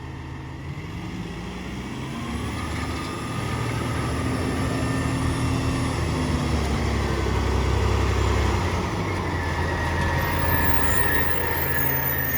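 Peterbilt 348 garbage truck's diesel engine revving up about a second in and then running loud and steady at raised speed, with a fainter whine above it. A thin high-pitched squeal joins near the end.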